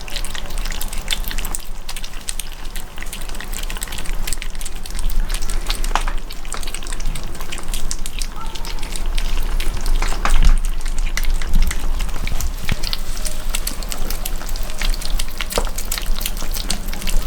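Hungry kittens eating at close range: a steady crackle of small, irregular smacking and chewing clicks.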